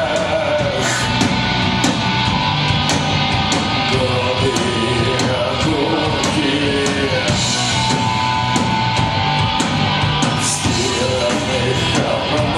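Live punk rock band playing: loud guitars and drums with regular cymbal hits, under a sung vocal line.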